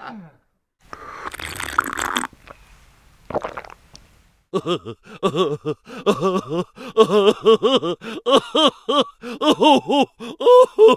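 Stock cartoon-style sound effects played back to back: a short noisy burst, a brief second one, then a fast string of short pitched blips that bend up and down, about two or three a second.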